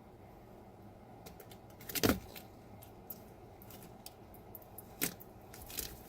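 Soft handling sounds from hand-feeding a barn owlet: scattered light clicks and rustles, with one louder short knock-and-scrape about two seconds in and a sharp click about five seconds in.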